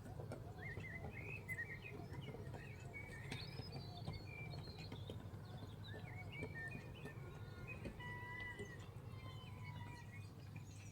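Birds chirping and calling in many short, wavering notes throughout, with a few longer held whistles about eight seconds in, over a steady low hum.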